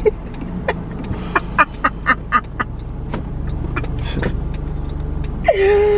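Road noise inside a moving car's cabin: a steady low rumble. A few short sharp sounds come in quick succession between about one and two and a half seconds in, and a voice starts near the end.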